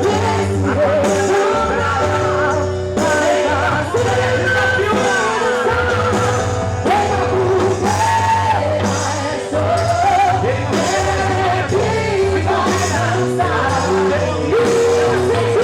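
A quadrilha's live regional band playing festa junina music with a singer, over a steady bass and beat.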